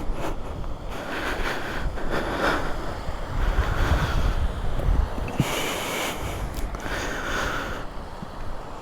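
Wind buffeting the microphone: a steady low rumble with hissing gusts that swell and fade about every one to two seconds.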